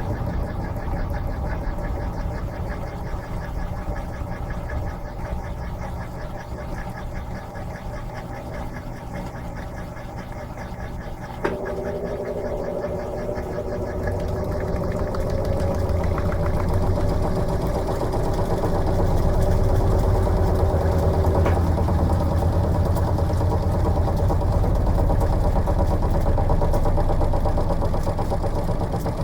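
Electrolux LM13Q top-load washing machine running mid-cycle with a steady low mechanical hum. About eleven seconds in a click sets off a steady humming tone that lasts about ten seconds and stops with another click, while the machine grows louder.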